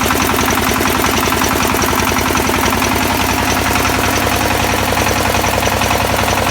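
XY-1B well-drilling rig running steadily on its engine, with a rapid, even beat throughout.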